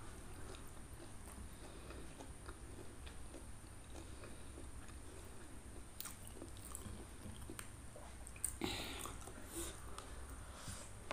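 A person chewing food close to the microphone with soft, scattered mouth clicks, and a louder bite about eight and a half seconds in.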